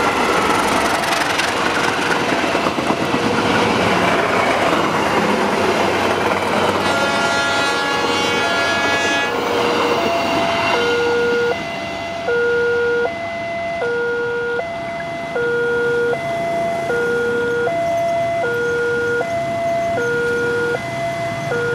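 A passenger train behind a diesel locomotive passes at speed with a loud rushing rumble, and its horn sounds for about two seconds partway through. A level-crossing warning alarm alternates between two tones throughout and is left sounding on its own as the train draws away.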